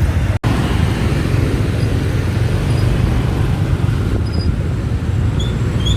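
Steady low rumble of wind and road noise on a moving motorbike, heard from the pillion seat. The sound cuts out for an instant about half a second in.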